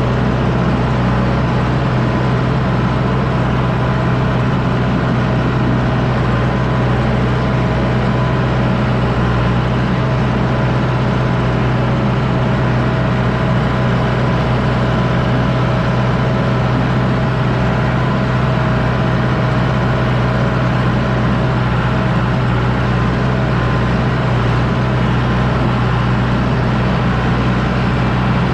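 John Deere 6110D tractor's diesel engine running steadily under load while pulling a disc harrow, a constant low hum with no change in speed.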